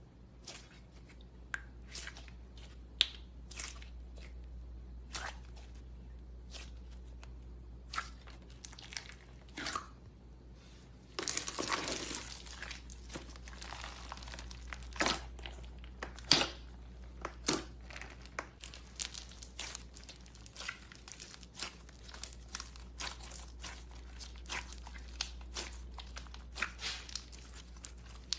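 Slime being squeezed and stretched by hand, giving a long run of sharp pops and clicks, with a denser crackling stretch a little before halfway. A steady low hum lies underneath.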